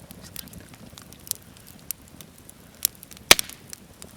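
Wood campfire crackling, with irregular sharp pops; the loudest pop comes about three seconds in.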